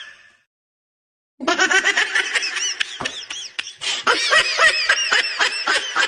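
Laughter with sharp clicks and pops through it. It cuts out completely for about a second near the start, then resumes.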